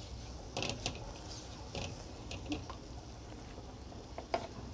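Spiced tomato masala frying in oil in a steel pan: faint crackling with about half a dozen sharper pops and ticks scattered through it, as it is stirred with a silicone spatula.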